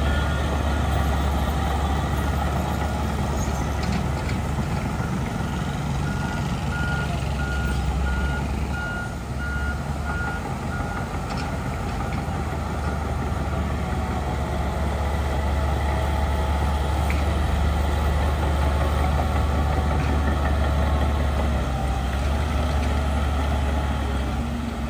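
Heavy diesel earthmoving machinery running steadily, with a reversing alarm beeping at an even pace until about halfway through, then stopping.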